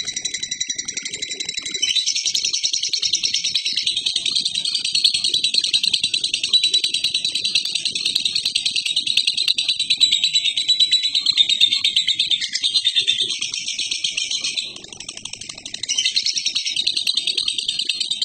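Lovebird singing a long 'ngekek': a continuous, rapid, high-pitched chattering trill without pause. It dips briefly softer near the end, then picks up again.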